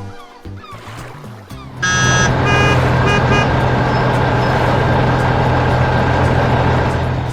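A machine engine starts up loudly about two seconds in and keeps running at a steady level, with a brief bright tone and a few short high beeps at its start; music plays beneath.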